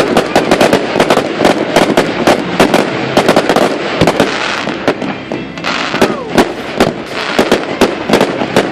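Fireworks going off: a loud, rapid, continuous run of overlapping cracks and bangs, several a second.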